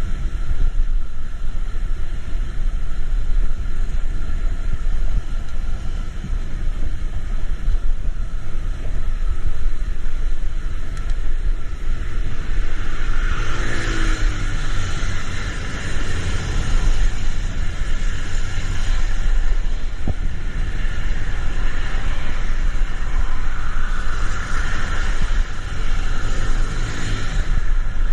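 Road traffic in the rain: a steady low rumble of vehicles, with louder tyre hiss on the wet road as vehicles pass about halfway through and again near the end.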